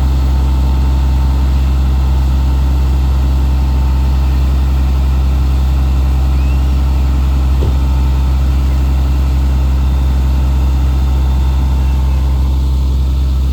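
Fire engine's engine running steadily with a deep, even drone.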